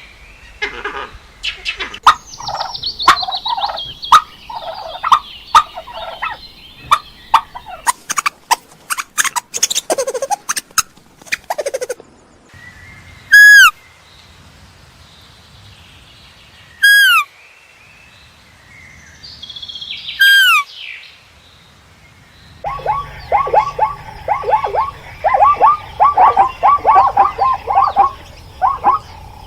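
Domestic turkeys gobbling and calling. Rattling gobbles and clicks come first, then three loud falling calls a few seconds apart, then a dense chorus of many short calls from about two-thirds through.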